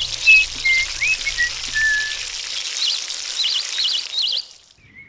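A steady hiss of rain with birds chirping, whistling and trilling over it; it all cuts off suddenly about four and a half seconds in.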